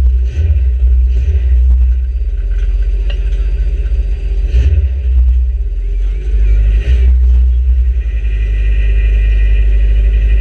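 Stripped-out micro banger's engine heard from inside the bare shell, running with a deep low drone as the car is driven slowly. A few short knocks sound about three, four and a half, and seven seconds in.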